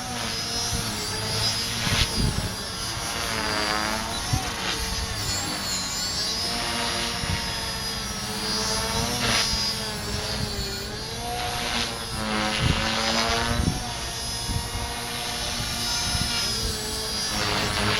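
Align T-REX 450 Pro electric RC helicopter with a Scorpion HK-II 2221-8 brushless motor in flight: the motor and rotor whine keeps rising and falling in pitch as it manoeuvres.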